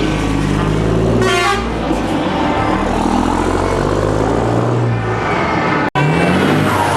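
Heavy truck engine on an open, straight-through exhaust running loud and steady, with a short horn blast about a second in. The sound drops out for an instant near the end, then the engine note rises briefly as it revs.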